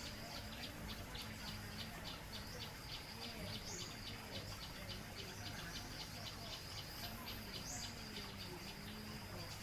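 An insect calling in a steady, rapid pulse, about four beats a second. A short rising bird whistle comes three times, about four seconds apart, over the even hiss of a small garden waterfall.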